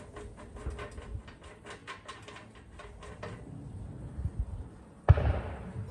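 The small fuel tank of a British Anzani outboard motor being opened by hand: a run of small irregular clicks and scrapes for about three seconds, then one sharp knock about five seconds in.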